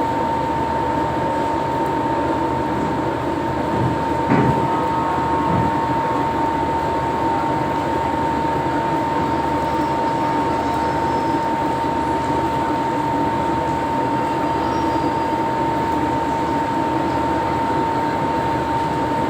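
Steady machinery drone with a constant high hum running through it, and a single brief knock about four seconds in.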